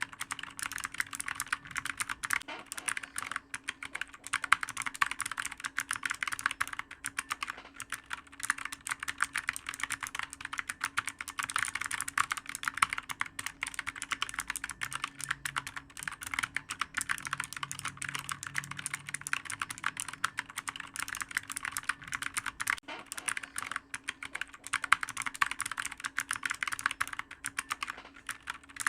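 Computer keyboard typed on fast and without a break: a dense, uneven stream of clicky keystrokes.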